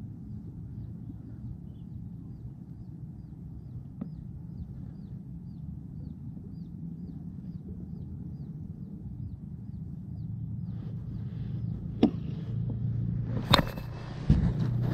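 Outdoor ambience with a steady low rumble, over which a small bird repeats a short, high, falling chirp about three times a second for several seconds. Near the end come three sharp knocks and some handling noise, the second knock the loudest.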